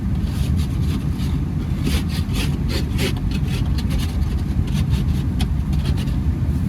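Honda Accord engine idling with a steady low rumble while warming up in the cold. Over it runs a series of short, irregular rubbing strokes that stop about six seconds in.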